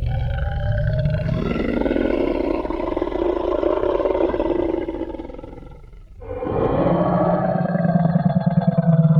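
Designed Tyrannosaurus rex roar sound effect: two long, deep roars, the first fading out after about five seconds and the second beginning about six seconds in.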